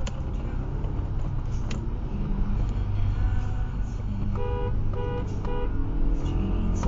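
Steady engine and road noise inside a car at motorway speed, with three short, identical beeps about half a second apart a little past the middle.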